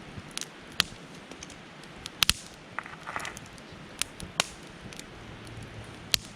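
Wood campfire crackling: irregular sharp pops over a steady hiss.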